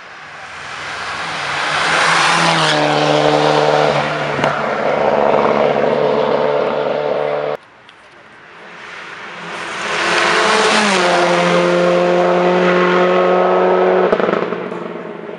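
Two hillclimb race cars passing at speed, one after the other. Each engine grows louder as it approaches, drops in pitch as it goes by, then holds a steady note as it pulls away. The first cuts off abruptly about halfway through, and the second fades near the end.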